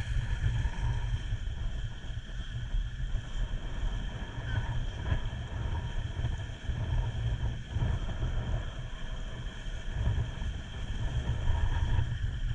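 Wind buffeting the microphone aboard a small boat under way, a gusting rumble, with a steady high hum underneath.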